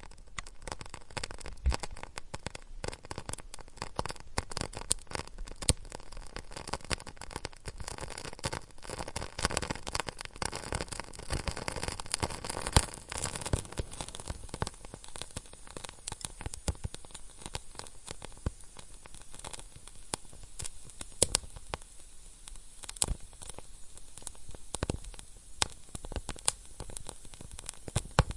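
Wood fire crackling and popping: a steady low hiss of flame with many irregular sharp snaps, a few of them louder single pops.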